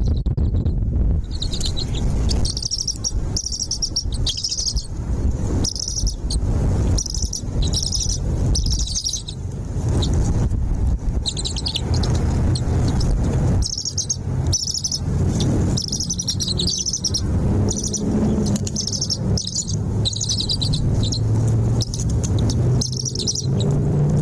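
Small birds chirping in rapid runs of short, high notes, over a steady low rumble.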